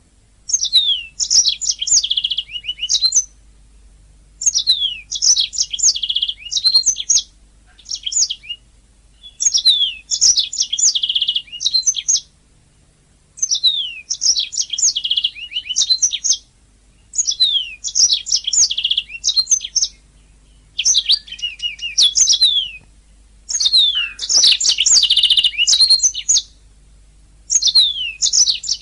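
Domestic canary singing in repeated phrases of two to three seconds each, built from quick falling sweeps and fast trills, with short pauses between phrases.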